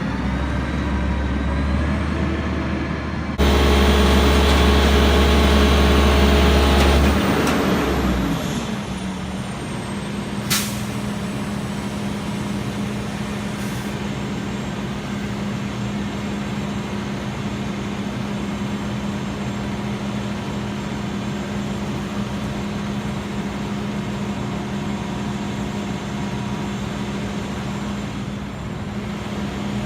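Garbage truck's engine running steadily, with a loud hiss of released air for about four seconds near the start, then fading. A single sharp click about ten seconds in.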